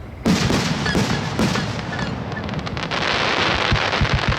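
Aerial fireworks going off: a quick series of sharp bangs starts about a quarter second in, followed by dense crackling near the end.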